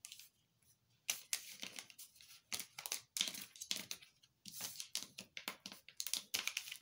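Tarot cards being handled and shuffled: a run of irregular rustling strokes starting about a second in.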